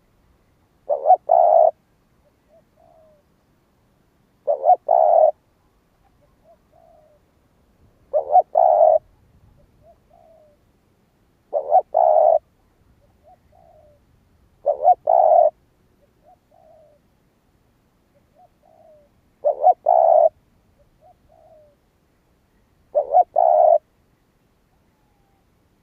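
Spotted dove cooing: a loud two-part coo followed by a few softer short notes, repeated about every three and a half seconds, seven times.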